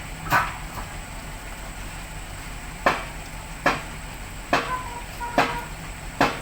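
Heavy diesel machinery idling steadily, with about six sharp knocks at uneven intervals, some leaving a brief ring.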